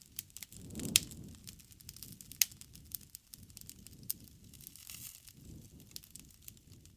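Wood bonfire burning: steady crackling with sharp pops over a low rumble of flame. The loudest pops come about a second in and about two and a half seconds in.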